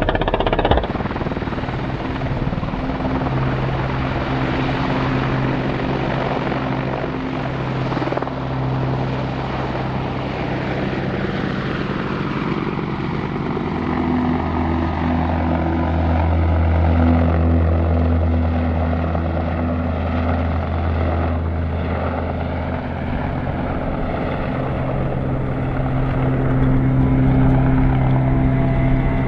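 Helicopter running steadily, a mix of rotor and turbine noise with a steady low drone. A higher whine falls slowly in pitch about halfway through, and a deeper hum swells for several seconds.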